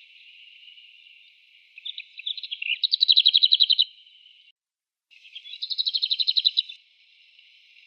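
Bohemian waxwing calling: a few scattered chirps lead into a rapid high trill about three seconds in, and after a brief gap a second trill comes about six seconds in.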